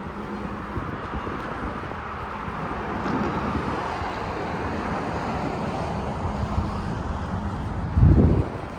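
Steady outdoor noise of wind and road traffic in a sandstorm, with a short low rumble of wind buffeting the microphone about eight seconds in.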